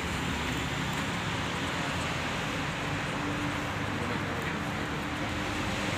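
Steady outdoor background noise with a low, even hum, like distant traffic or a running engine.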